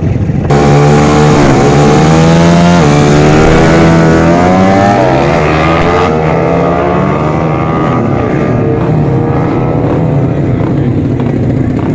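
Racing motorcycle engine at full throttle in a drag run, coming in suddenly about half a second in, its pitch climbing and dropping back at each of several gear shifts as it accelerates away.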